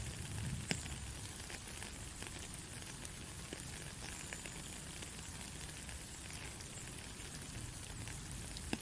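Steady rain falling on a road, an even hiss with many scattered sharp drop clicks, one louder tap a little under a second in.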